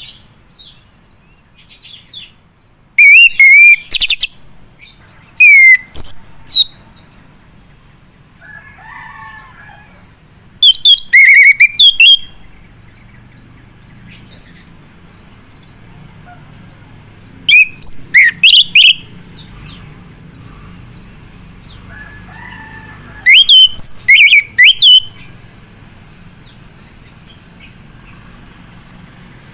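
Male chestnut-capped thrush (anis kembang) singing in five loud bursts of high, twittering phrases that glide up and down, a few seconds apart. Softer, lower calls come in about nine seconds in and again past twenty seconds, with a faint steady hum underneath in the second half.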